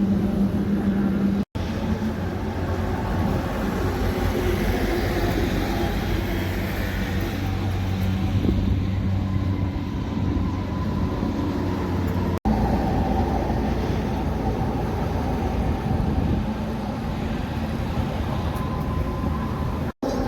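Heavy trucks on the road: a steady engine drone with tyre and road noise. The sound cuts out for an instant three times, at edits between clips.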